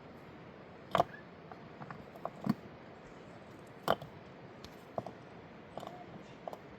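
Irregular sharp knocks and clicks, about seven in all and a second or so apart, over a steady faint hiss.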